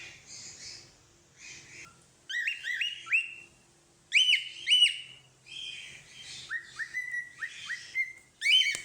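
Cockatiel whistling: runs of short, rising whistle notes mixed with scratchy chatter. The loudest two notes come about four seconds in, followed by a quick string of rising whistles and another loud note near the end.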